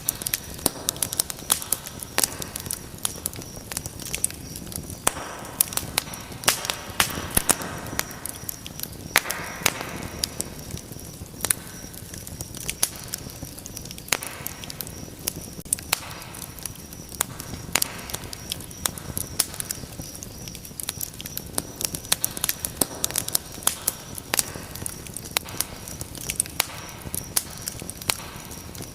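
Wood fire crackling: frequent sharp pops and snaps over a steady hiss, with soft swells of rushing flame.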